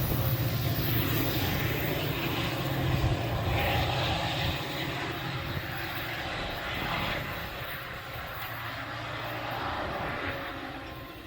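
Low engine rumble of a large passing vehicle, loudest at the start and fading steadily away over about ten seconds.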